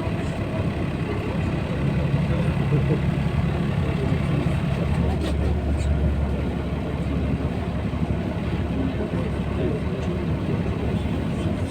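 Engine and road noise of a LiAZ-5256 city bus under way, heard from inside the cabin: a steady low drone that grows a little louder about two seconds in and deepens about halfway through.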